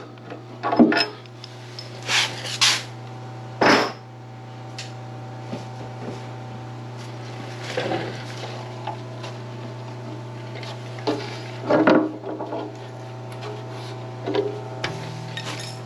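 Metal clinking and knocking, as from hand tools and steel parts being handled, a dozen or so separate strikes, over a steady low hum.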